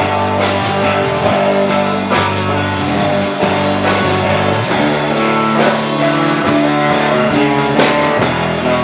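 Rock band playing an instrumental passage: guitars over a drum kit with a steady beat.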